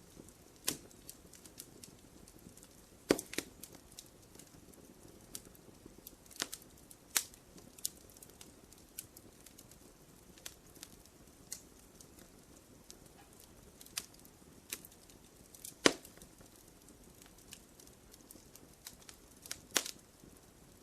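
Wood fire crackling: irregular sharp pops and snaps over a soft steady hiss, with a few louder pops.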